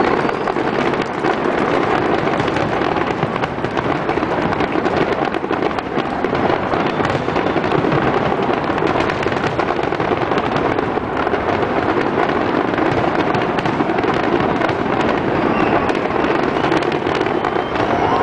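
Aerial fireworks shells bursting in rapid, continuous succession: a dense, unbroken barrage of bangs and crackle.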